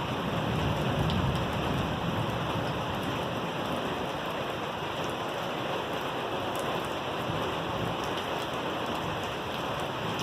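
Heavy rain pouring steadily during a thunderstorm, an even hiss of rain on surfaces.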